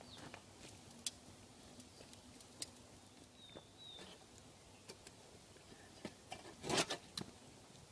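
Faint scattered clicks and crackles at a smouldering campfire being covered with sand, with a short louder rustle near the end. A faint short chirp is heard about halfway through.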